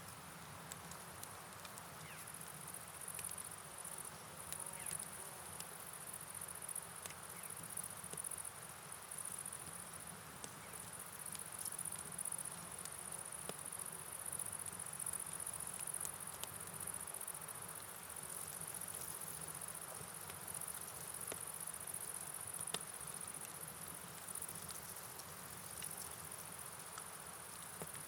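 A steady, high-pitched night-insect chorus, crickets trilling without a break, over a constant hiss of rain and flowing river water, with scattered light ticks of drops.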